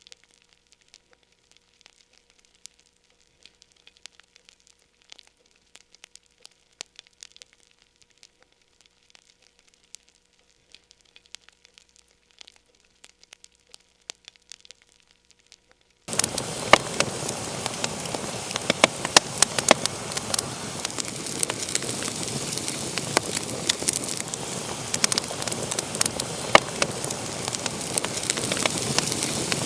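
Wood fire crackling in a fireplace: faint, sparse pops and snaps for about half the time, then it abruptly turns much louder, with a dense crackle and hiss full of sharp pops.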